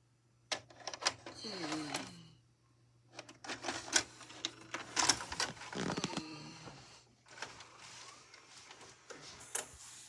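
Clicks, knocks and rattles of hard plastic from a VHS cassette and its case being handled, in two spells with a short pause about two and a half seconds in.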